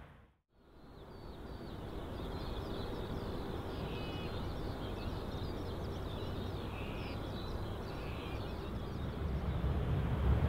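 Many small birds chirping over a steady low rumble of distant jet aircraft, after a brief moment of silence at the start; the rumble grows louder near the end.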